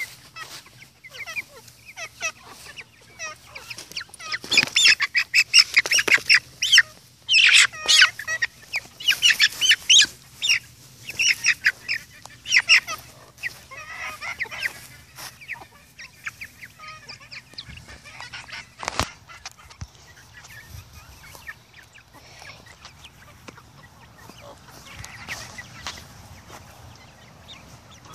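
Chickens clucking and squawking, in a loud flurry of quick calls from about four to thirteen seconds in, then softer, scattered clucking. A single sharp knock comes about two-thirds of the way through.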